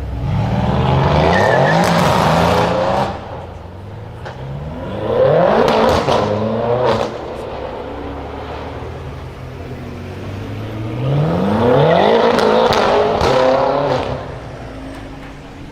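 Mercedes engine with a very loud exhaust, blipped three times from a steady idle: each rev climbs quickly and falls back, with a few sharp cracks from the exhaust.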